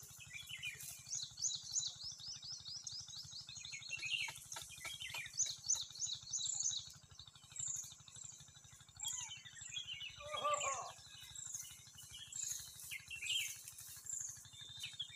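Small birds chirping and calling busily, with one high call repeating about once a second through the second half. A single short, lower-pitched call stands out about ten seconds in.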